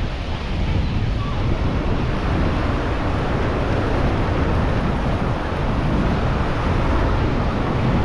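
Wind buffeting the microphone, with ocean surf washing steadily behind it.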